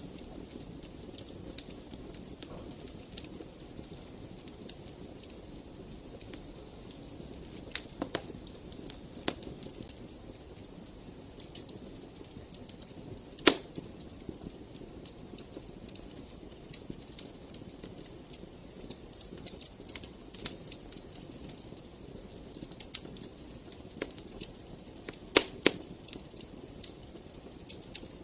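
Fire burning in a fireplace: a low steady rush of flames with scattered sharp crackles and pops, the loudest pop about halfway through and a quick cluster of pops near the end.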